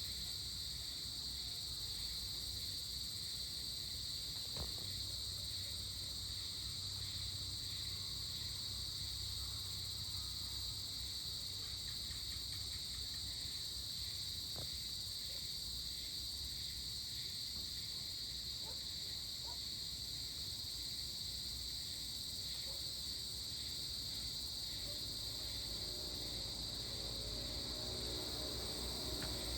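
Steady insect chorus of crickets, a continuous high, even trilling, with a low rumble rising near the end.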